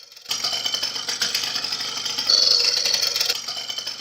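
Small two-stroke engine of the moped kind running, starting suddenly just after the start and louder for about a second in the middle.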